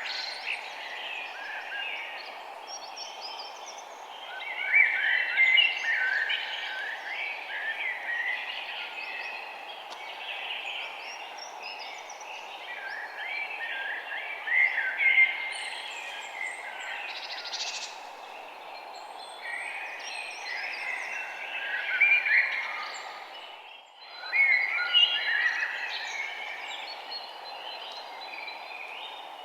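Many small songbirds chirping and twittering at once, a dense chorus of short overlapping calls, over a steady background hiss. The sound drops out briefly about three-quarters of the way through, then resumes.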